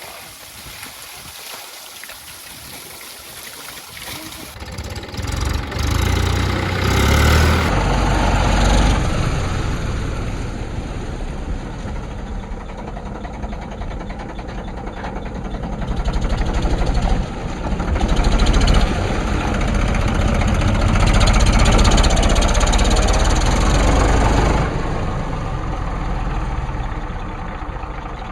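Mini tractor engine running, growing much louder about five seconds in, then rising and falling.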